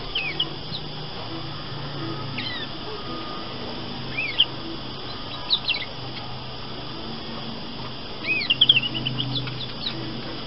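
Female domestic canary giving scattered short chirps and sweeping call notes, with a quicker run of notes near the end; a halting, still-practising attempt at song rather than a full warble.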